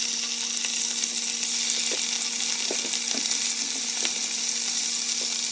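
Marinated pork loin slices sizzling steadily as they pan-fry in hot oil, with a few faint pops in the hiss.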